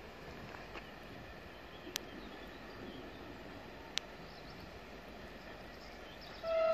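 Faint, steady rumble of a passenger train of Czech coaches rolling away on the rails, with two sharp clicks about two seconds apart. Near the end a louder steady tone starts, like a horn or signal tone.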